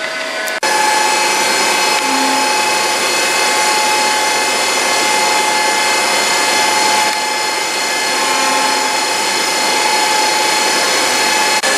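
A shop machine or power tool running steadily with a constant whine, cutting in abruptly about half a second in.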